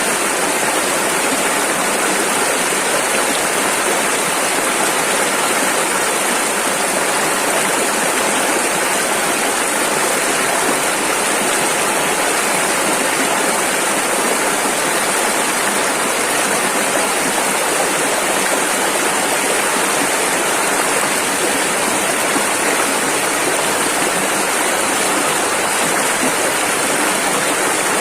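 Rushing river water flowing over rapids: a loud, steady rush with no change.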